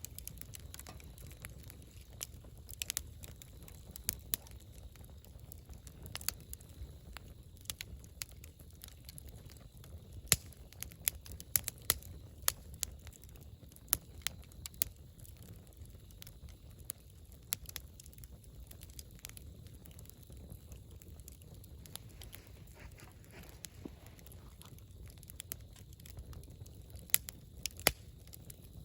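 Wood campfire crackling: irregular sharp pops and snaps, some much louder than others, over a low steady rumble.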